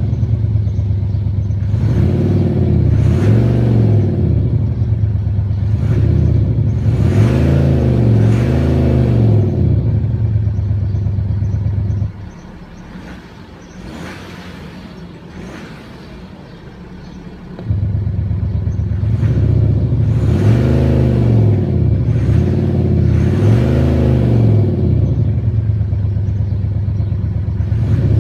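BMW X4 diesel with a retrofitted active sound exhaust booster, running with a deep, steady drone and revved in quick pairs of blips, the pitch rising and falling with each. About 12 seconds in the sound drops much quieter for around five seconds, then the loud drone and rev pairs return.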